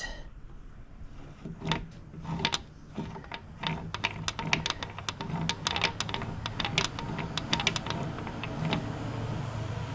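Quick, irregular light clicks and taps from hand tools working at stuck valve lifters in a DeSoto Hemi engine block. The clicks are sparse at first and come thick and fast from about four seconds in, over a steady low hum.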